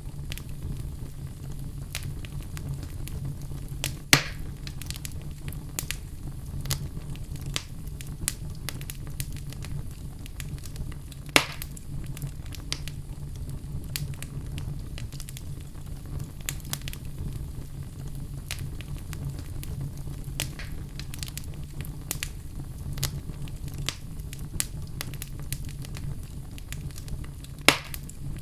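Fire burning in a fireplace, crackling steadily with irregular small pops and three louder sharp pops, over a steady low rumble.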